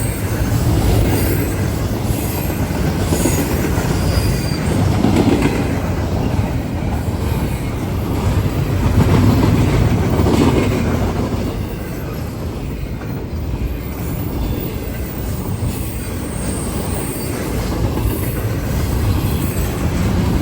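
Long CSX intermodal freight train rolling past at speed: a steady, loud rumble of steel wheels on rail that swells and eases, with a few brief high wheel squeals in the first seconds.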